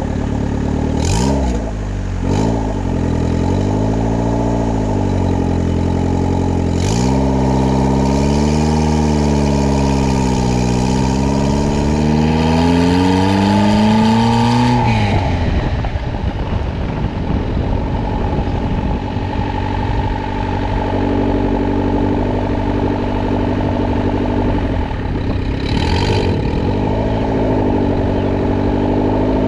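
Turbocharged Honda Civic D16 four-cylinder engine revving through the gears on a drive. Several short pulls give way to one long climb that drops off sharply about halfway, followed by steadier cruising and a rise near the end, with brief hissing bursts between pulls. No rubbing noise is heard from the wheels.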